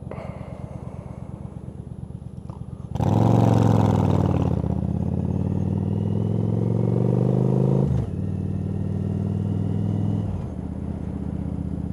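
Yamaha V-Star 1100's air-cooled V-twin engine running low, then about three seconds in it revs up sharply as the bike accelerates. Near eight seconds the engine note drops briefly, as at a gear change, before pulling again, and it eases off near the end.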